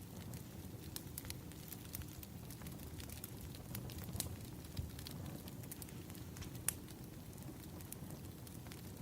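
Burning wood logs crackling: scattered sharp pops and snaps over a steady low rumble of the fire, with one pop about two-thirds of the way through louder than the rest.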